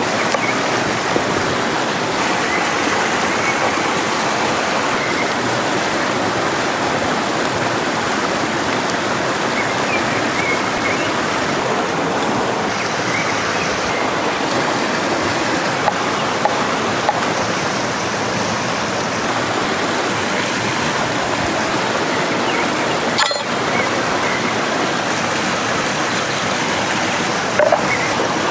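Flowing stream water, a steady rushing without a break, with a few faint short chirps and one sharp click about 23 seconds in.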